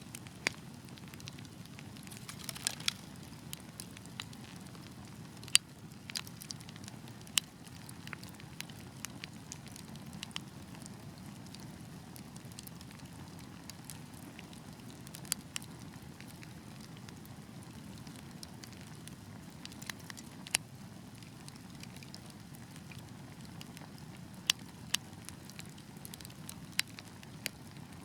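Wood fire burning with a steady low rumble and irregular sharp crackles and pops from the logs, a few louder snaps standing out.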